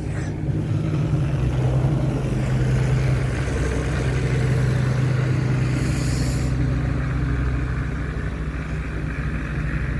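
A vehicle engine running steadily with a deep, even hum, with a brief hiss about six seconds in.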